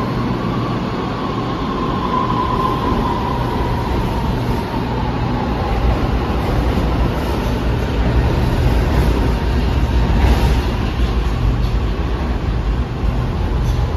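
Shanghai Metro Line 11 train pulling away and gathering speed. A motor whine rises slightly in the first few seconds, then fades under a steady rumble of wheels on the track that grows louder.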